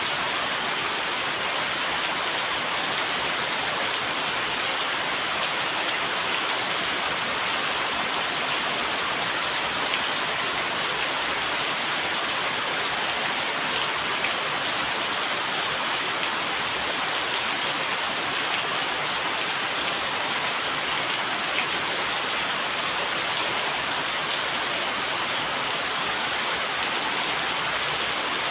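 Steady rain falling: an even hiss of many drops, with the odd sharper drop ticking through it.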